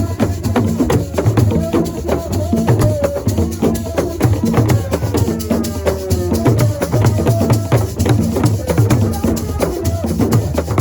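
Senegalese assiko music: fast, dense drum percussion with rattles shaking along, and a voice over it.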